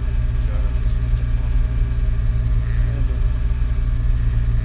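Peugeot 106 rally car's engine idling steadily, heard from inside the cabin while the car is stationary.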